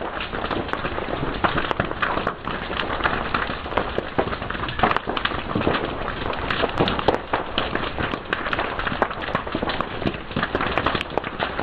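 Wood fire crackling, with a dense run of irregular sharp pops and snaps over a steady hiss.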